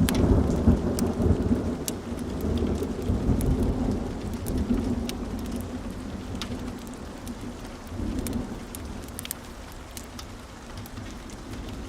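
A rolling thunder rumble over steady rain. It is loudest at the start and fades over several seconds, with a smaller rumble about eight seconds in. Scattered sharp crackles sound throughout.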